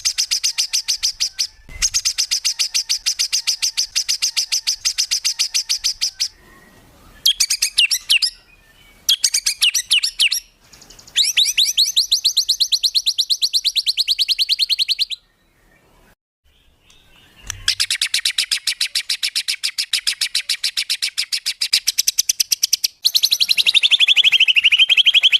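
Songbird trilling in rapid-fire bursts of very fast repeated high notes, each burst lasting one to five seconds with short breaks between. These are the 'tembakan' (shot) trills used as masteran to teach caged birds. One burst slides down in pitch toward its end, and the last burst dips and rises.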